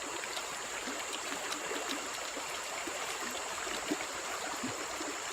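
Stream water running steadily, with one small knock about four seconds in.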